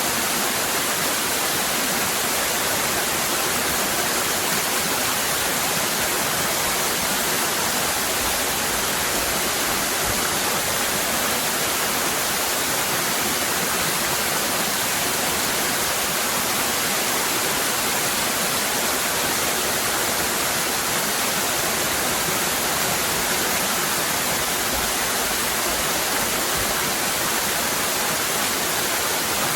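Waterfall: water cascading with a steady, unbroken rush.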